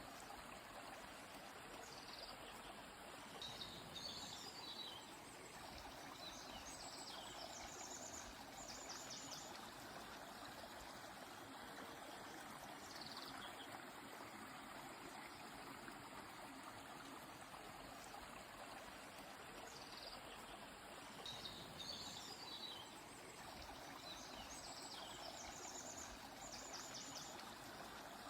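Faint, steady rush of a flowing stream, with short bird chirps and trills breaking in every few seconds.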